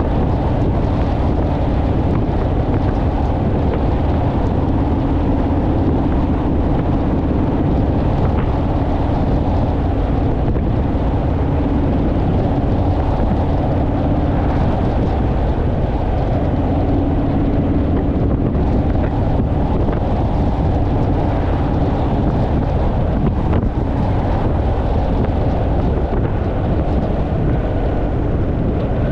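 Honda Rebel motorcycle's parallel-twin engine running at a steady cruise, with heavy wind buffeting on the microphone.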